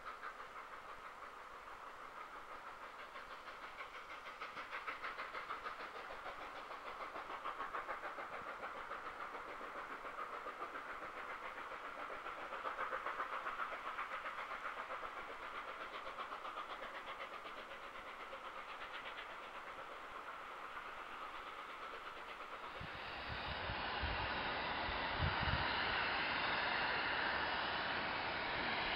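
Distant passenger coaches rolling over a viaduct, their wheels clattering over rail joints in a fast, even clickety-clack. About 23 s in the sound changes to a louder, steady noise of a distant steam train, with gusts of wind buffeting the microphone.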